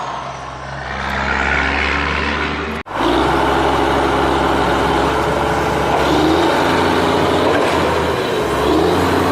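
Construction machine engines running steadily, with a sudden break a little under three seconds in where the sound cuts out for an instant and resumes.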